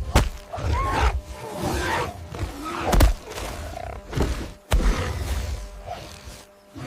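Cinematic action soundtrack: music under whooshes and heavy hit effects, with three sharp impacts (just after the start, about three seconds in, and near five seconds). Short gliding animal cries sound between the hits.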